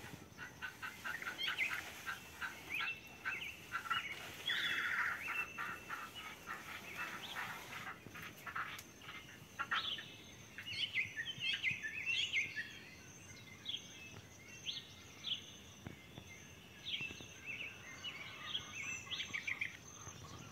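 Small birds chirping and singing: many short high notes, quick repeated chirps and brief trills that come and go.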